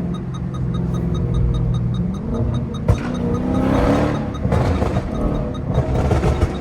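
Tuned Dodge Charger SRT Daytona's 392 HEMI V8 running under way, rising in pitch as it accelerates about three seconds in, with a few sharp pops.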